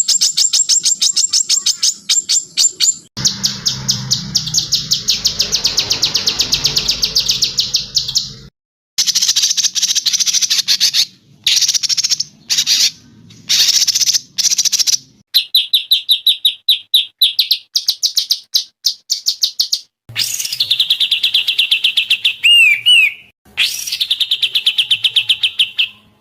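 Songbirds singing fast trills of rapidly repeated high notes, in clips spliced one after another that cut off abruptly with brief gaps between them.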